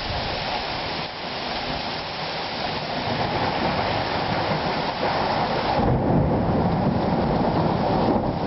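Heavy rain falling steadily during a thunderstorm, with a low rumble of thunder that swells from about the middle and is loudest near the end.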